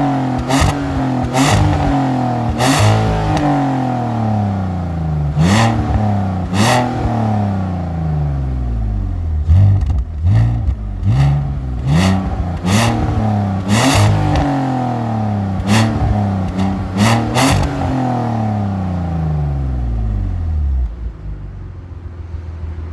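BMW M54B30 3.0-litre straight-six on a stock exhaust, revved repeatedly in quick throttle blips, the revs falling back after each one, with a rapid burst of blips about ten seconds in. Near the end it drops back and settles to a steady idle.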